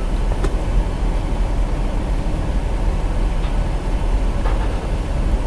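Steady low rumble heard from inside a car cabin as the car-wash conveyor pulls the car in, with a couple of faint clicks.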